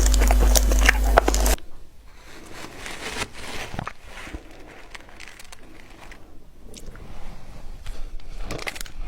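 Frozen matcha ice being bitten and chewed close to the mic, with scattered crunches and crackles. For about the first second and a half a loud low hum runs under the clicks, then cuts off suddenly.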